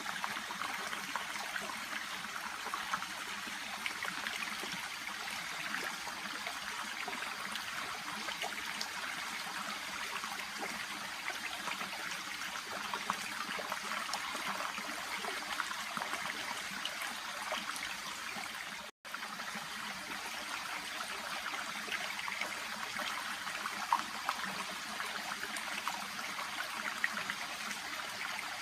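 A shallow brook babbling steadily, its water trickling and rushing over stones. The sound cuts out for an instant about two-thirds of the way through.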